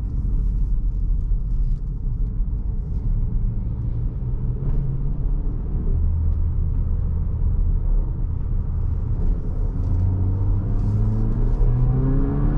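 Haval H6-GT's 2.0-litre turbocharged four-cylinder engine in Race Mode, heard from inside the cabin over steady road rumble. The engine note rises and levels off a couple of times as the SUV pulls up to speed, with a stronger rising run near the end.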